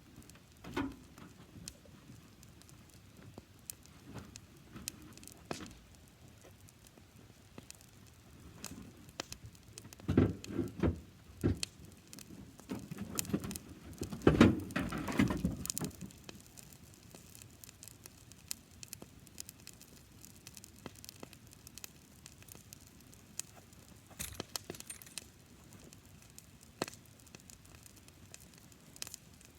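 Campfire of dry grass crackling with scattered sharp pops, growing louder and denser for a few seconds in the middle.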